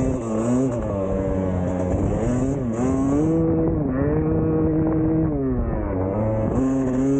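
Two-stroke dirt bike engine under hard riding, revving up and falling back with throttle and gear changes. It holds a steady pitch for about two seconds in the middle, drops off about six seconds in, then climbs again near the end.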